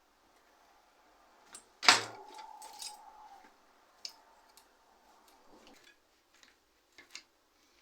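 A metal part or tool knocks sharply against a hard surface about two seconds in and rings on for a second or so, followed by several small metallic clicks of handling.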